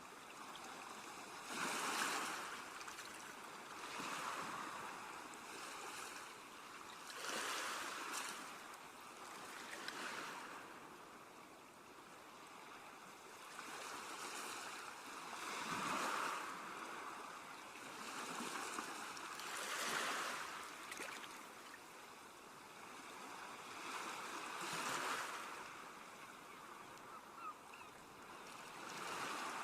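Ocean waves breaking and washing onto a shore, the surf swelling and falling away every few seconds.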